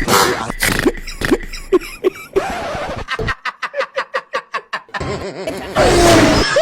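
A person laughing in short repeated bursts, quickening to a fast even run of pulses, then a loud hissing burst near the end.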